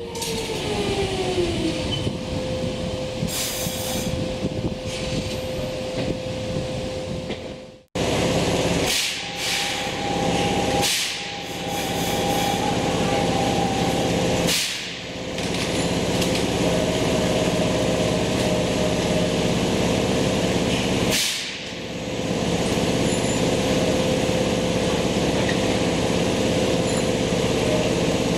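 Electric commuter train at a station. It gives a steady hum with a single held tone, cut off abruptly about eight seconds in. Then comes a steady hum from the train with several short hisses of air, typical of air brakes and pneumatics.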